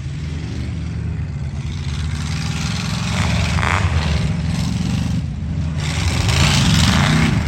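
Truck engine revving hard under load, rising in pitch, with two louder surges of throttle.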